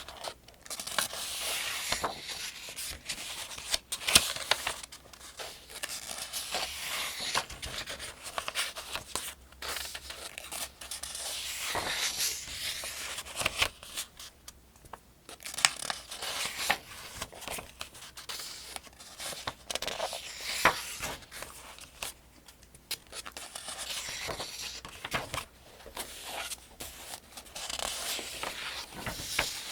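Paper pages of the Farmers' Almanac being turned one after another, each turn a rustling swish with crisp snaps of the sheet, coming every few seconds at a steady pace.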